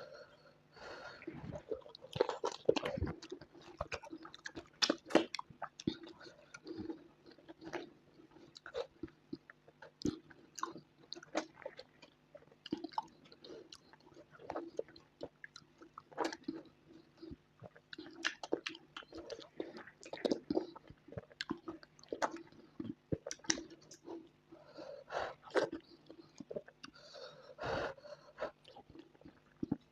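Close-miked chewing and wet mouth sounds from eating starch with peanut soup: irregular lip smacks, clicks and squelches of a soft, sticky swallow being chewed, with no pause.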